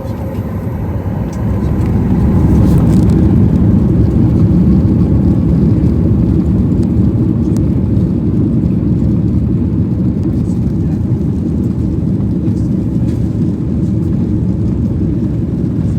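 Jet engine noise heard inside the cabin of a Boeing 737 MAX 9, a deep steady rumble from its CFM LEAP-1B turbofans that swells over the first two to three seconds and then holds steady.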